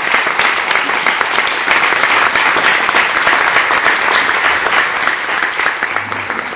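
Audience applauding: many hands clapping steadily, thinning a little near the end.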